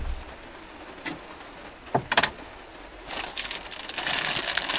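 A few light knocks, then plastic food packaging crinkling and rustling steadily as it is handled.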